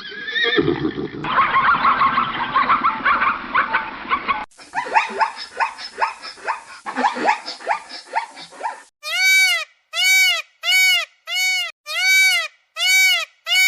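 A run of animal calls from three spliced clips. First comes a dense, rough calling for about four seconds. Then a quick series of short falling calls. From about nine seconds, clear, evenly spaced arched calls repeat roughly one and a half times a second.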